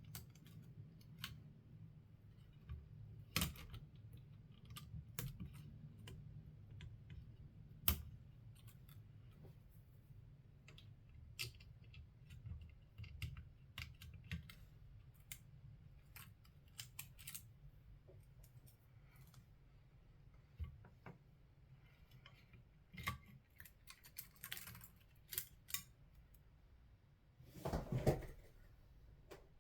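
Scattered small clicks and taps of tools and parts being handled while a portable radio transceiver is taken apart, irregular and a few a second at most, over a low steady hum. A louder, longer clatter comes near the end.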